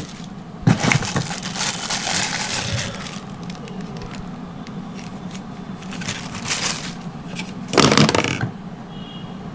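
Packaging being handled and rummaged through: rustling and crinkling in bursts, busiest about a second in and again near the end.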